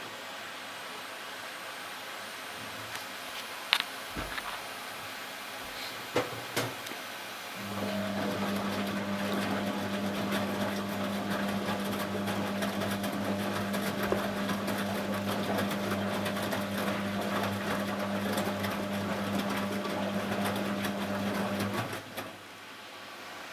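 Zanussi Z913 washing machine starting its programme: a few clicks, then about eight seconds in a steady hum with a rush of water that runs for about fourteen seconds and cuts off suddenly.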